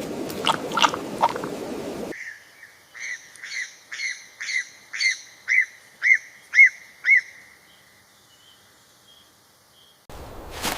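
A bird calling a run of about ten short arched chirps, roughly two a second, growing louder and then trailing off into faint chirps. It is framed by a crackling rustle in the first two seconds and again near the end.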